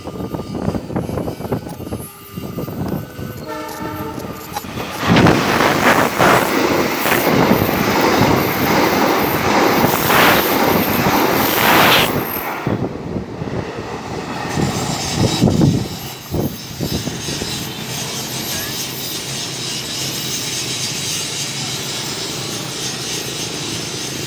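A train horn sounds briefly, then a fast parcel train passes close by, its wheels clattering over the rail joints under a loud rush of noise for several seconds. The noise then settles into a steadier rushing, like wind, as the train moves on.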